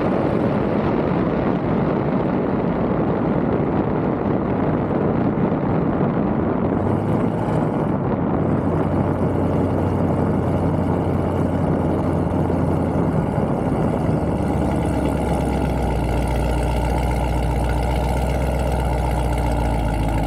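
Car engine running with loud rushing noise for most of the stretch, then settling into a steady, even idle about two-thirds of the way in.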